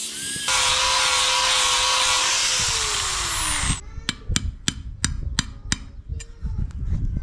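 A power tool running steadily, then switched off and winding down a little before the middle, its tone dropping in pitch. After it, about eight sharp metallic taps follow, roughly three a second.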